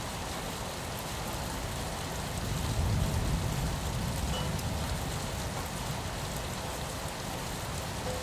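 Steady rain falling on a window, an even hiss of rain, with a low rumble that swells briefly about three seconds in.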